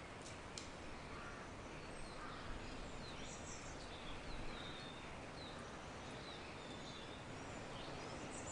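Nature-sound recording: a steady hiss of outdoor background noise with scattered short, high bird chirps and calls.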